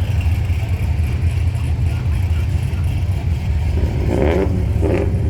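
Car engines running with a steady, low rumble. Voices come in about four seconds in.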